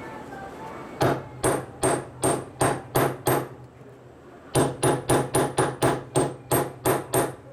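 A hammer striking metal in quick, even blows, each with a short metallic ring. There is a run of about seven blows, a pause of about a second, then a faster run of about ten more.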